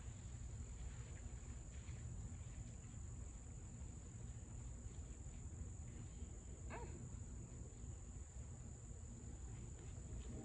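Steady high-pitched drone of insects such as crickets over a low steady rumble, with one short faint blip about seven seconds in.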